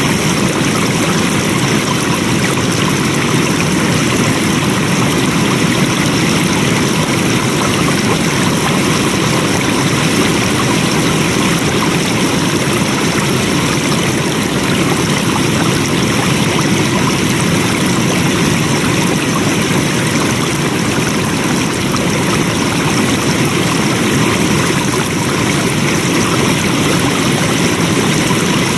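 Water flowing steadily, a continuous even rush like a stream or small cascade, with no change in level.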